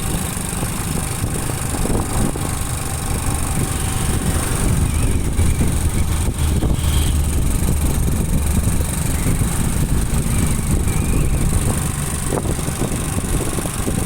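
Motorcycle engine running with wind and road rumble while riding, a little louder through the middle.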